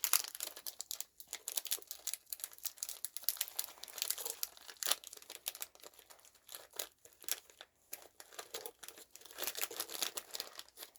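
Plastic snack packaging crinkling in an irregular, crackly run as packets are handled and opened.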